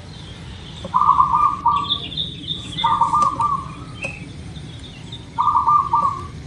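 Zebra dove (perkutut) cooing three times, each a rapid stuttering phrase about a second long. A smaller bird chirps at a higher pitch between the coos.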